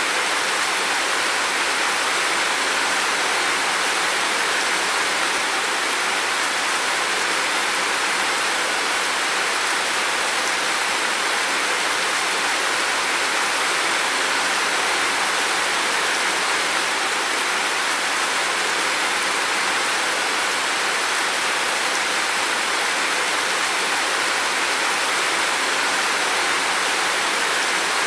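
Heavy rain falling steadily as an even, unbroken hiss, with no thunder or separate drops standing out.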